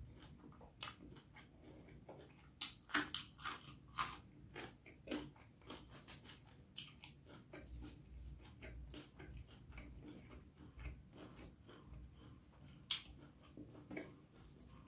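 Close-up chewing and biting of spicy beef curry and rice, with irregular mouth clicks that come thickest a few seconds in.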